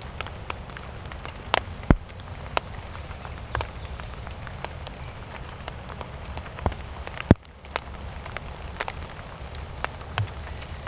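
Steady rain falling, with big drops striking close by as scattered sharp taps at uneven intervals over a low rumble.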